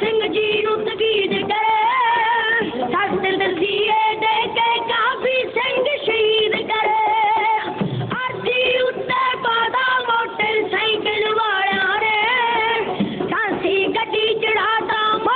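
Dhadi-style Punjabi folk song: high-pitched singing with sliding, ornamented melody over instrumental accompaniment.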